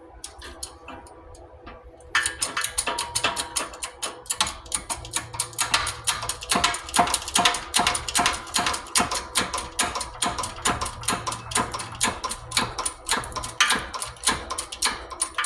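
Rapid, steady metal-on-metal hammer blows, about four or five a second, on a makeshift driver, driving a new tapered roller bearing cone onto a Mack power divider pinion shaft. They start about two seconds in.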